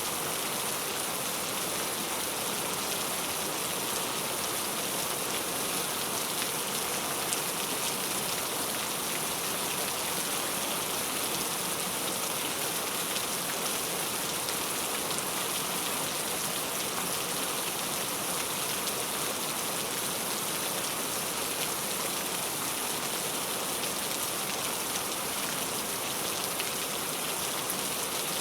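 Heavy rain falling steadily: a dense, even hiss of drops with no letting up.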